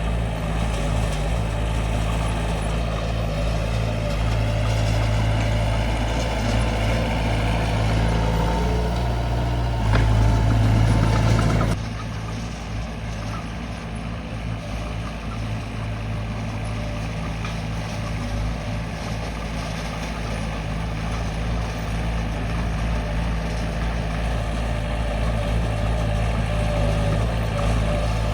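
Diesel engine of a D20 bulldozer running steadily under load while it works. It is louder for a couple of seconds about ten seconds in, then drops off suddenly and builds back up slowly.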